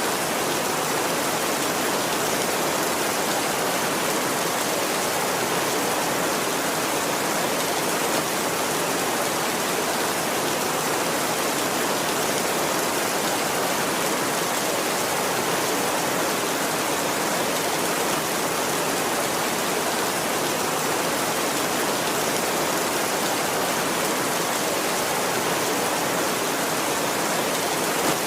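Heavy rain falling steadily on a tin roof, a dense even hiss with no thunder.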